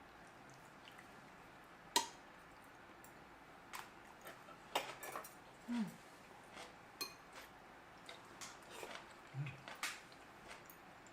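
Utensils clinking and tapping against dishes and bowls during a meal, with one sharper click about two seconds in and a run of scattered lighter clicks after it.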